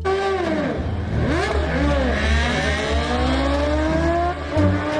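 Racing motorcycle engine sound effect revving. The pitch swings up and down a few times, then climbs in one long acceleration, drops sharply at a gear change about four and a half seconds in, and climbs again.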